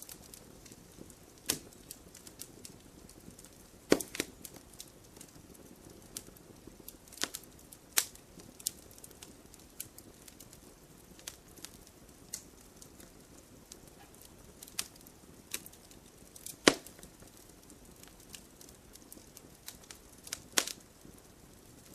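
Wood fire crackling: a faint steady hiss with irregular sharp pops and snaps, a few of them loud, the loudest about two-thirds of the way in.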